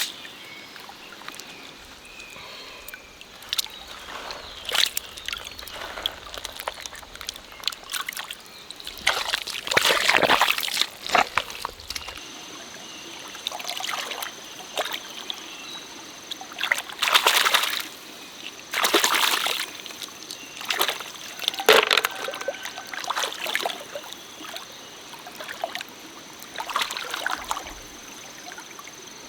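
Shallow stream water splashing and sloshing in irregular bursts over a steady trickle.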